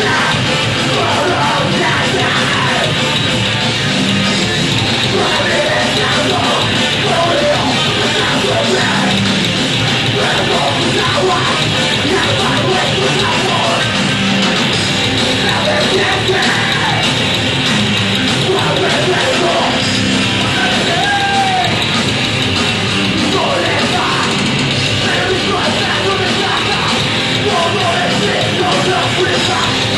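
Live heavy rock band playing loud and without pause, with yelled vocals over the band.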